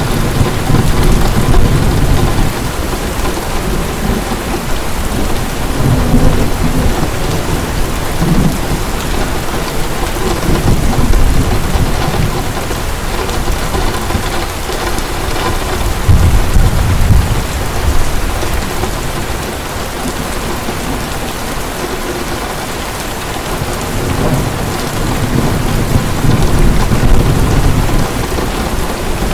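Heavy rain pouring steadily, with low rolls of thunder swelling and fading several times, the strongest about sixteen seconds in.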